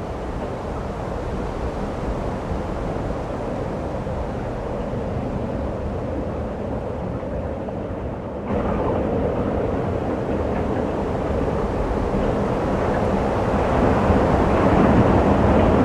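Steady rushing wind of a snowstorm, a rough noise with no distinct tones. It jumps abruptly louder and brighter about halfway through.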